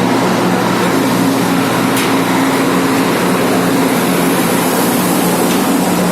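A large diesel engine running loudly and steadily, with a brief click about two seconds in.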